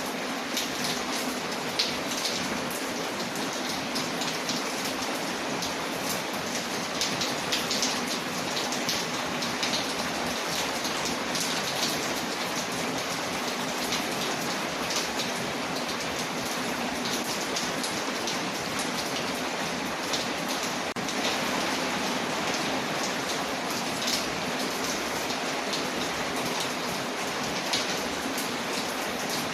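Steady rain falling on a window, mixed with the frequent small pops and crackles of a wood fire burning.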